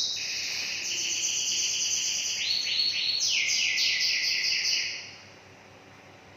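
A bird chirping loudly in quick, rapidly repeated high notes, which stop about five seconds in.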